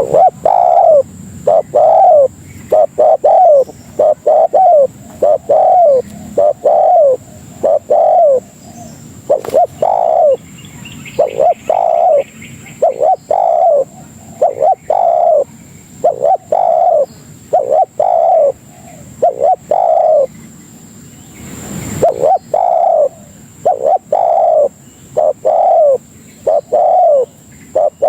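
Spotted dove (tekukur) cooing: a long series of short, falling coo notes, about one to two a second, broken by a couple of brief pauses.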